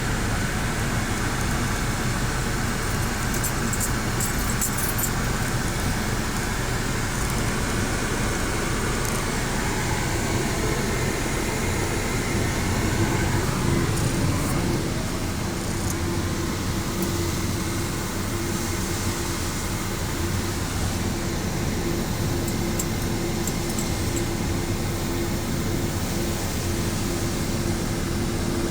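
Ryko Radius automatic car wash running: a steady, loud wash of machine and spray noise with a low rumble. A steady hum joins about twelve seconds in.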